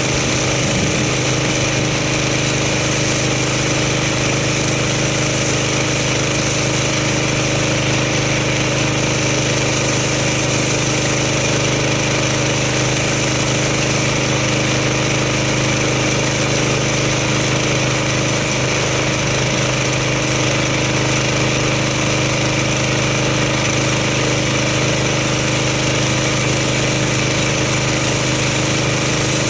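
Gas-engine pressure washer running steadily while its spray rinses snow foam off a car.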